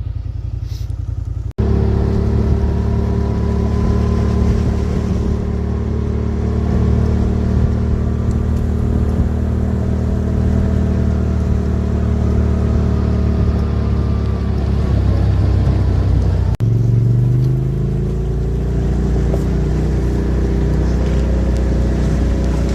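A motor vehicle engine running steadily, its pitch dipping and then rising again, with two abrupt cuts, about a second and a half in and near the end of the first two-thirds.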